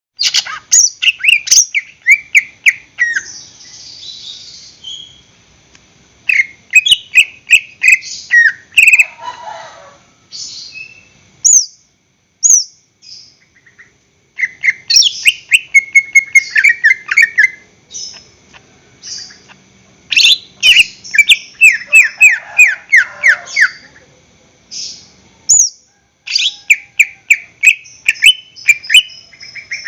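Green leafbird (cucak ijo) singing: fast runs of sharp, downward-sweeping high notes in bursts of a few seconds, with short pauses between them.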